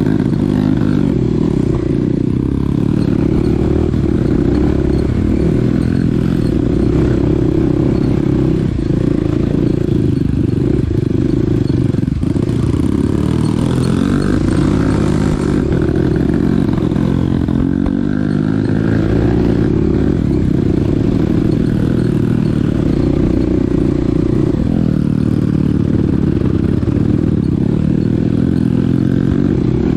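Small dirt bike's engine running while riding, its note rising and falling with the throttle throughout.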